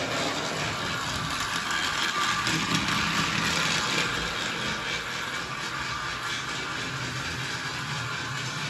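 Battery-powered motorized toy train's small electric motor and gears running steadily along plastic track.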